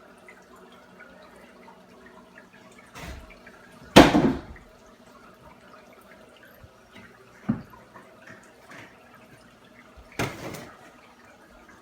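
Paludarium waterfall trickling and dripping steadily over a low, even hum. Four sudden knocks or splashes break through, the loudest about four seconds in and another near the end.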